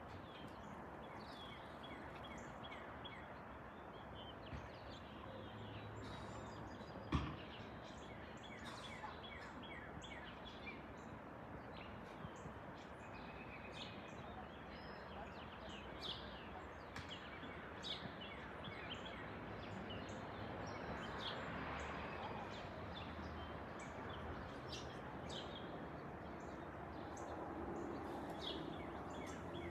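Faint, steady jet rush of a Boeing 767-400ER airliner passing overhead, swelling a little past the middle, with birds chirping over it. A single sharp knock about seven seconds in.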